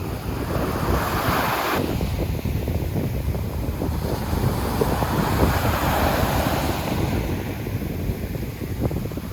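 Sea waves breaking and washing up on the beach, swelling about a second in and again around five to six seconds in, with heavy wind rumble on the microphone.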